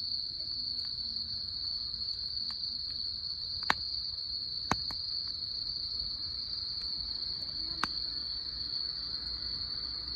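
Wood fire crackling with a few sharp pops, the loudest about four and five seconds in, over a continuous high-pitched insect trill.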